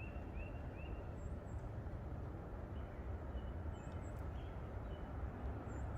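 Wild birds chirping faintly: three short rising chirps in the first second, then scattered high thin notes, over a steady low rumble.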